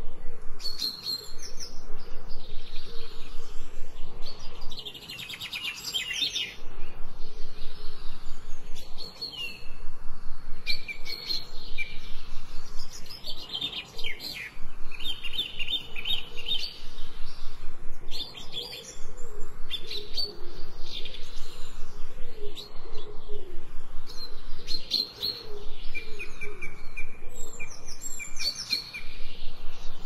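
Songbirds chirping and calling together in a dense chorus: many short high chirps and quick trills following one another with hardly a pause.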